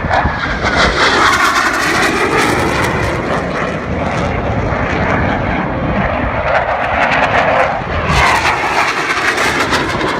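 Blue Angels F/A-18 Hornet jets flying past, a loud sustained jet roar that swells again about eight seconds in, with wind buffeting the microphone.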